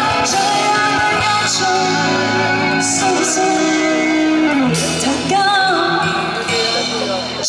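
Live pop-rock band with guitar playing an instrumental passage between sung lines, with a held vocal note in places, in a large hall.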